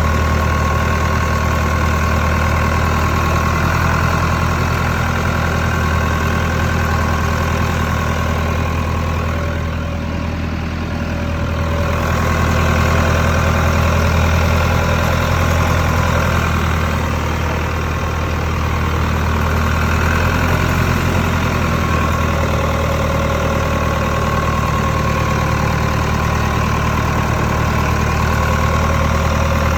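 Massey-Ferguson 188 tractor's Perkins 4.248 four-cylinder diesel engine idling steadily, dipping slightly in level for a moment about ten seconds in.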